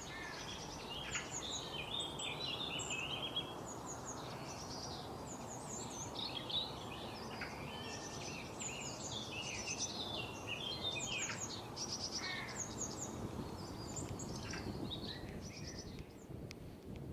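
Several wild birds chirping and singing in quick overlapping calls, over a steady outdoor background noise; the calls thin out near the end.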